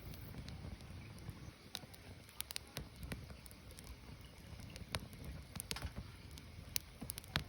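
Firewood burning: irregular sharp crackles and pops from the burning wood over a low, steady rumble of the flames.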